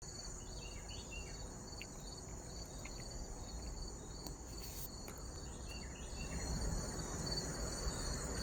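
Steady high-pitched trilling of crickets or other insects, with a short bird chirp phrase heard twice, about a second in and again about six seconds in.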